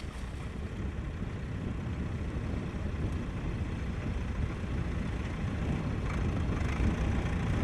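Tractor engine running under load as it makes a side pull to free a tractor stuck in sand, growing gradually louder.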